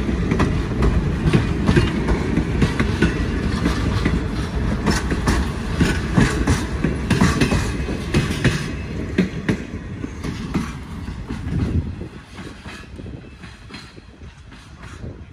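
Train rolling past, its wheels clicking over the rail joints. The sound fades steadily and is much quieter over the last few seconds as the train moves away.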